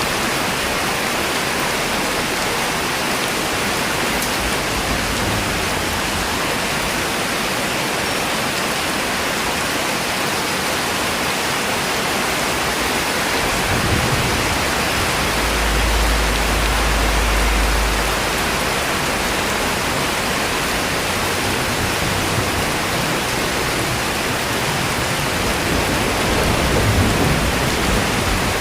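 Steady, even rainfall, with a low rumble rising briefly about halfway through.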